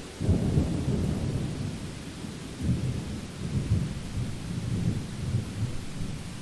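Rainstorm: steady rain hissing, under low rolling thunder that swells just after the start and again about two and a half seconds in.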